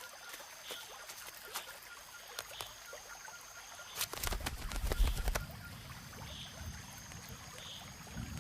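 Tropical rainforest ambience: a thin, steady, high insect whine that drops out now and then, a soft call repeating about once a second, and scattered sharp clicks. About four seconds in, a louder low rustling flutter rises for a second or so.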